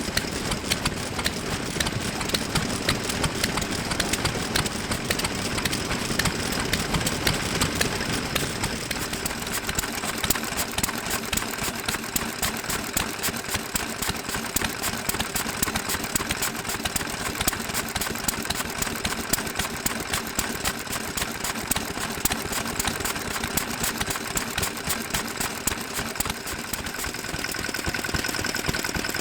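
Vintage engines running steadily, with a rapid, even exhaust beat.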